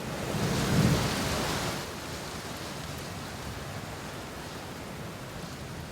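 Steady rain hissing, with a low rumble of thunder swelling and fading over the first two seconds.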